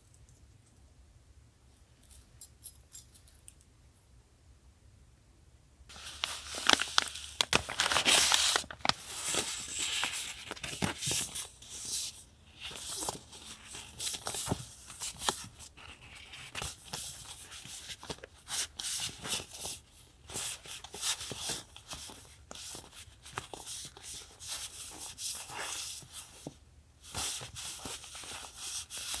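Paper and packaging being handled close to the microphone: a few faint taps, then from about six seconds in, continuous crinkling rustles and tearing with sharp crackles.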